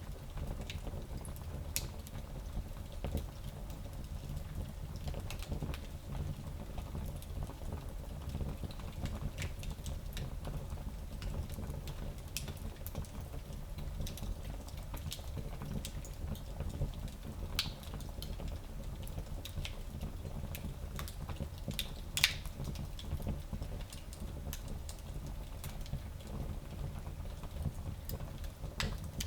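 Fireplace fire crackling, with scattered sharp pops over a steady low rumble; one pop about three quarters of the way through is louder than the rest.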